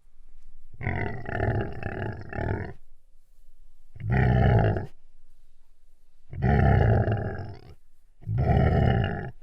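Recorded dinosaur roars, four in a row: a longer pulsing one of about two seconds, then three shorter ones with brief pauses between.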